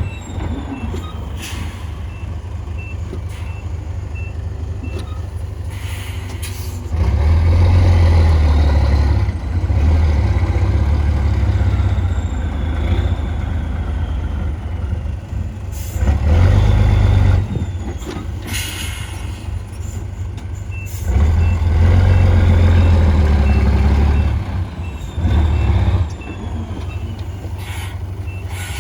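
Heavy diesel earthmoving machinery running and working, the engine swelling under load several times. A reversing alarm beeps steadily about twice a second near the start and again for several seconds in the second half, with a few short sharp hisses or clanks in between.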